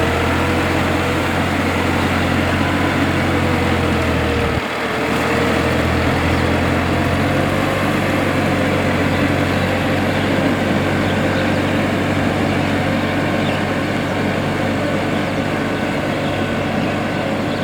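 Tractor diesel engine running steadily, with a brief dip about four and a half seconds in.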